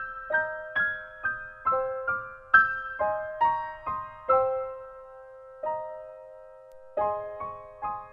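Background music: a gentle solo piano melody in the upper register, single notes struck about two a second and left to ring, slowing to longer gaps in the middle before picking up again near the end.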